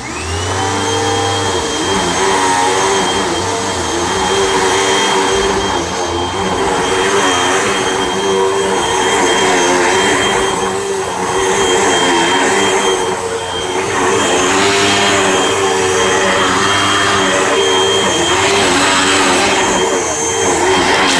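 Hoover WindTunnel Rewind Bagless upright vacuum cleaner switching on, its motor whine rising as it spins up, then running steadily, its sound rising and falling every couple of seconds.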